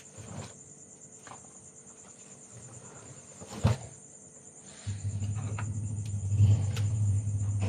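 Crickets chirring steadily in a high, even pulse, with a few light knocks and one sharp knock about three and a half seconds in. About five seconds in, a low mechanical hum starts abruptly and runs on, louder than the insects.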